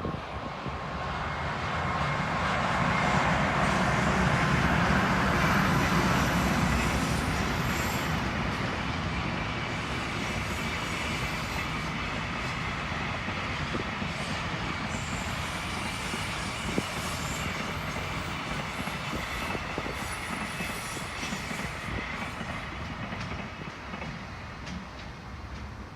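EH500 electric locomotive passing, followed by a long string of freight wagons rolling by, wheels clacking on the rails. Loudest a few seconds in as the locomotive goes by, then a steady run of wagons that slowly fades near the end.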